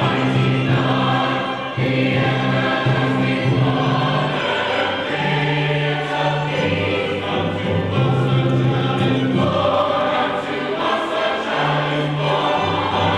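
Choir singing, with held chords that change every second or two.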